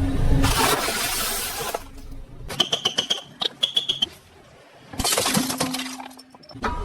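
Brittle objects crunching and shattering as a car rolls over them. There is a noisy burst at the start, a run of sharp cracks in the middle, and a second crunching burst about five seconds in.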